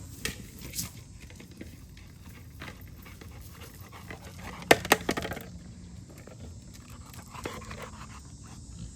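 A dog panting and moving about, with two sharp, short sounds close together about halfway through.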